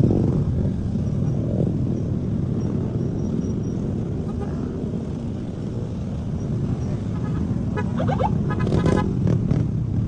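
Steady low rumble of Yamaha XMAX motor scooters riding in a group, with a few brief higher sounds near the end.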